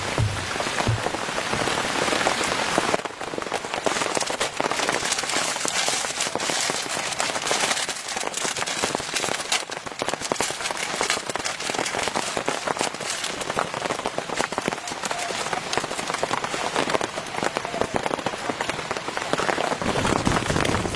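Heavy rain falling, with many close drops striking a surface as a dense, steady patter of ticks. The sound dips slightly and changes character about three seconds in.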